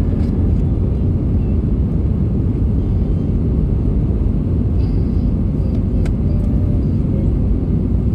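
Steady low rumble of cabin noise inside an Airbus A320 airliner during its landing, the engines and airflow heard through the fuselage, with a few faint clicks.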